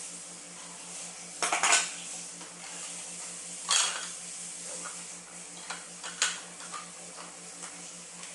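Hard plastic toy pieces knocking and clattering as a small child handles and fits them together: a few sharp clacks with lighter ticks between. A steady low hum runs underneath.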